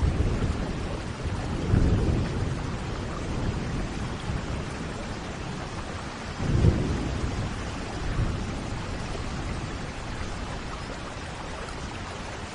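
Thunderstorm: steady rain hissing, with thunder rumbling twice, about two seconds in and again more loudly about six and a half seconds in.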